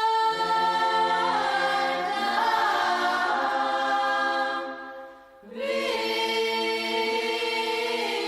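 A cappella choir singing long held chords, breaking off briefly about five seconds in before the next chord.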